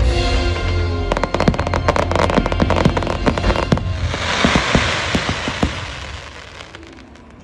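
Fireworks display: show music for about the first second, then a rapid barrage of bangs and pops from bursting shells and mines. About four seconds in, a dense crackling hiss of glittering stars takes over and fades away near the end.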